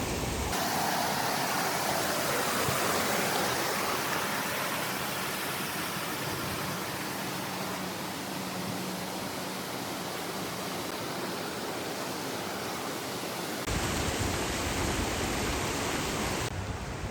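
Steady rushing water, a continuous even hiss with no distinct events. It starts abruptly about half a second in and gives way near the end to a different background with more low rumble.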